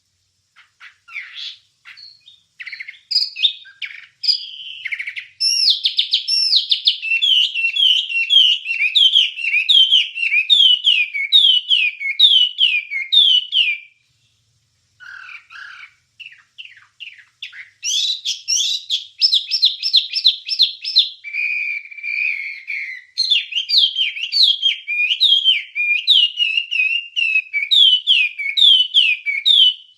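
Wambie bird singing: long runs of quick, repeated down-slurred chirping notes, a brief pause about halfway through, then a faster run of notes and one held note before the repeated phrases resume.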